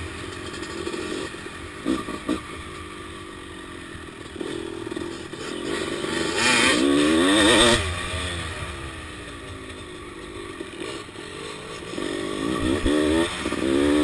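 1997 Honda CR250R's 250cc two-stroke single-cylinder engine being ridden hard, its pitch rising and falling with the throttle, loudest about halfway through and again near the end. A couple of sharp knocks come about two seconds in.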